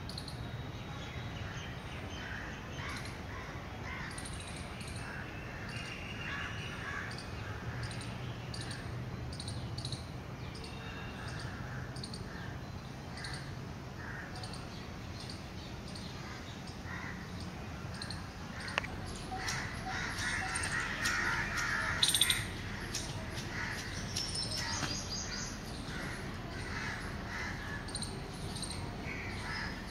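Wild birds calling, many short repeated calls that grow busier and louder about two-thirds of the way through, with one sharp click shortly before.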